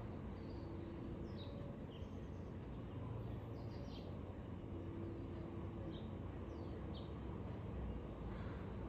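Short, high, downward-sweeping bird chirps, a few at a time, clustered about a second and a half in, around four seconds in and again near six to seven seconds, over a steady low rumble of outdoor background noise.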